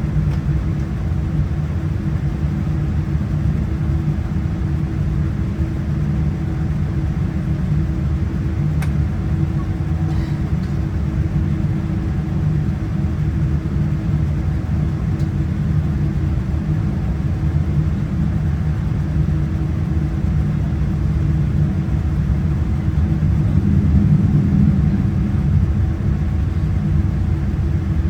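Steady low rumble and hum of a Boeing 787-9's Rolls-Royce Trent 1000 engines running, heard from inside the passenger cabin.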